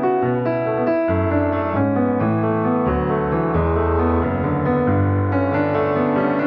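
Background piano music: steady chords and melody notes played at an even pace.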